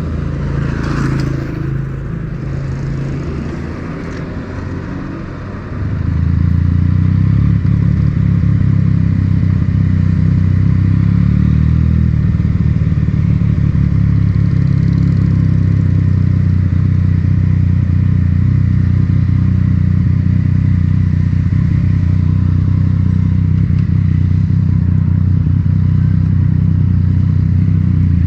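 Yamaha MT-09's inline three-cylinder engine through an Akrapovic titanium exhaust, heard onboard while riding. It runs quieter and lower for the first few seconds. About six seconds in it gets much louder and then holds steady revs.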